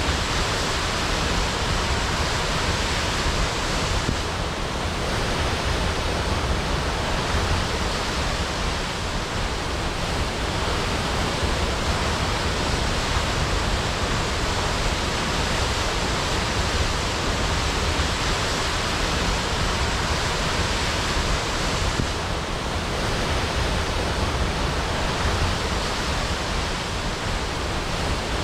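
Waterfall crashing: a steady, dense rush of falling water.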